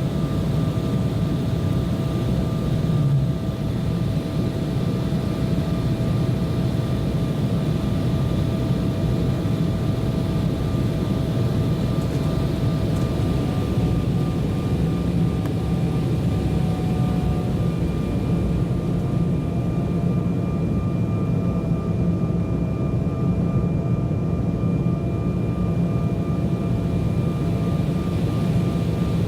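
Cabin noise of an Embraer 190 jetliner in flight: the steady low rumble of its turbofan engines and airflow, with a few faint steady whining tones over it.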